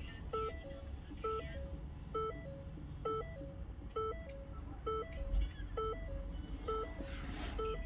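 An electronic beep pattern, a quick figure of a few notes, repeats about once a second over a low hum. A brief hiss comes near the end.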